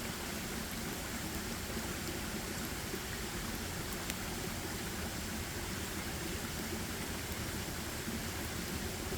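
Steady, even rushing outdoor ambience, with no distinct events apart from a faint click about four seconds in.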